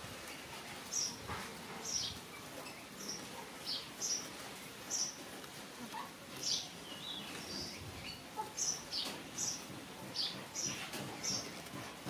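Small bird chirping repeatedly in the background: short, high, falling chirps, one or two a second.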